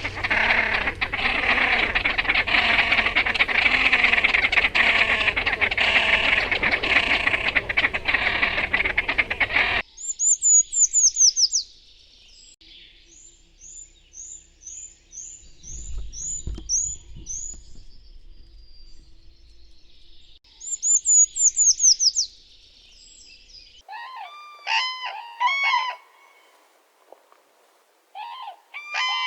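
Three bird recordings play one after another. First comes a dense, loud chorus of many birds calling at once. It cuts off at about ten seconds and a bird follows with runs of thin, very high down-slurred notes. Near the end a different bird gives a few loud calls.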